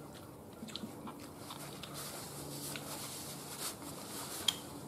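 Someone chewing roasted chicken, with soft scattered crackles and small clicks and one sharper click near the end. A low steady hum sits underneath.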